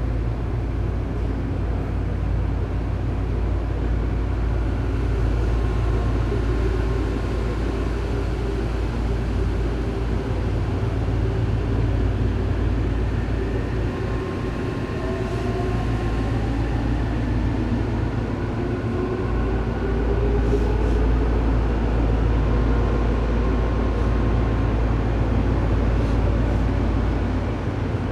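Running sound of a Tobu 9000 series electric train, heard from above the armature chopper of its motor car: a steady low rumble of wheels and motors, with a chopper whine whose tones glide upward in pitch about halfway through. The chopper of this car is known for an abnormal noise.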